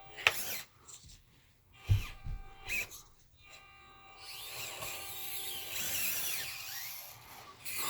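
Small electric RC rock crawler's motor and gears whining steadily under throttle, starting about halfway through, after a few light knocks.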